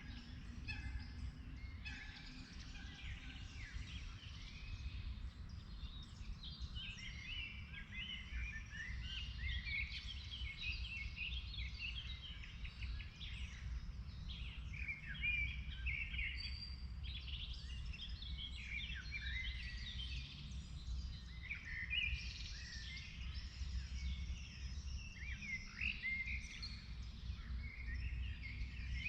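Several songbirds chirping and singing at once, a dense run of short overlapping chirps and trills, over a steady low rumble.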